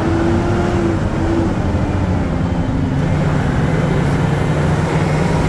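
Diesel engine of a Sterling water truck running steadily under way, heard inside the cab with road noise; the engine note rises a little about three seconds in.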